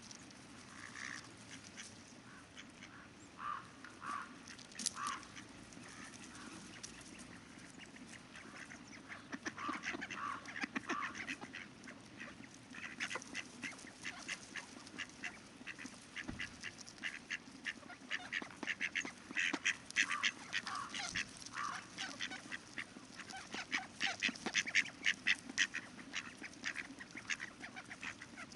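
A group of ducks quacking: scattered calls at first, then a busy run of rapid quacks and chatter through the second half, over the steady sound of river water.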